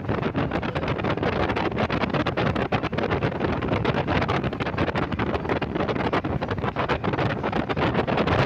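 Wind buffeting the microphone on a boat under way at sea, crackling over a steady low drone.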